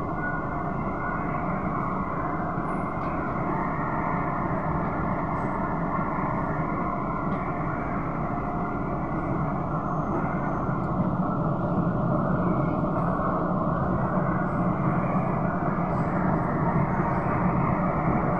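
Cabin noise of an SMRT Kawasaki-Sifang C151B train running between stations: a steady rumble of wheels on rail with faint motor tones. It grows a little louder about halfway through.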